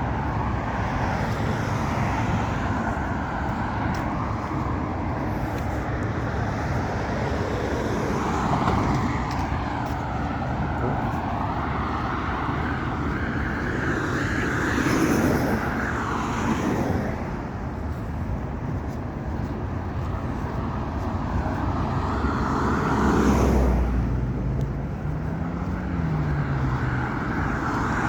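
Steady road traffic noise from passing vehicles, swelling and easing several times.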